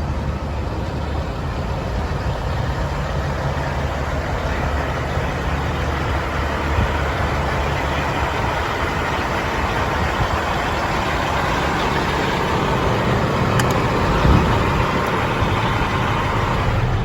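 Caterpillar C15 diesel engine of a 2009 Peterbilt flatbed truck idling steadily, with a brief thump about fourteen seconds in.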